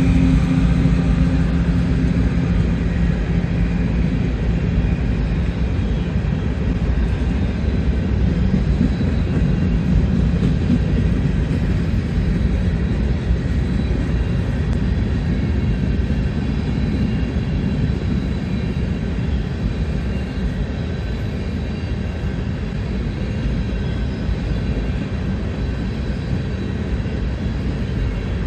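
Grain train of loaded hopper cars rolling past on the rails: a steady rumble of wheels that eases off slowly. A low engine hum from the lead GE ES44AC locomotive drops away in the first few seconds.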